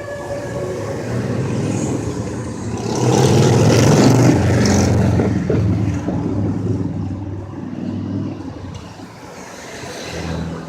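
Fire engine's siren winding down and fading out in the first second, then its engine running and accelerating, loudest about three to five seconds in, and fading away.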